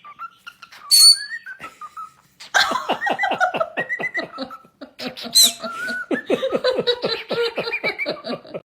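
A pet bird vocalizing: whistled notes and a sharp high chirp, then from a couple of seconds in a fast rhythmic run of clicking chatter, about five clicks a second, under whistled notes.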